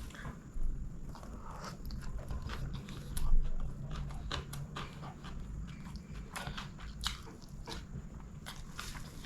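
Close-miked eating: a person chewing and biting biryani, with irregular wet clicks and crunches from the mouth. There is a louder knock about three seconds in.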